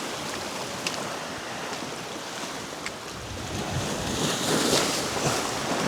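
Surf washing against a rock jetty, with wind buffeting the microphone; a wave surges louder about four seconds in.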